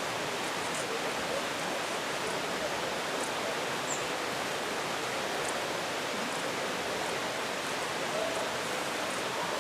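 Steady rushing of falling water, with faint short high chirps now and then above it.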